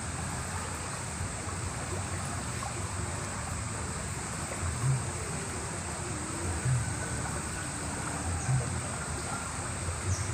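Steady rush of flowing river water, with a thin, steady high-pitched whine over it. Several short, dull low thumps come roughly every two seconds in the second half.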